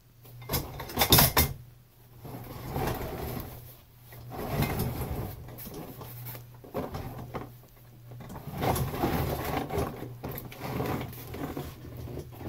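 Irregular clunks, clicks and rattles of things being handled and moved, with a few sharp clicks about a second in.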